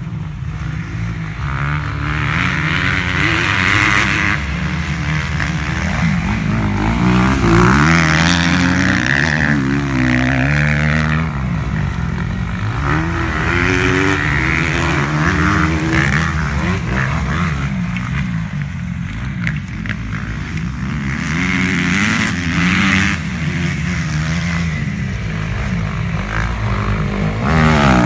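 Motocross motorcycle engines revving hard and backing off over and over, the pitch climbing and dropping every few seconds as the bikes ride the track.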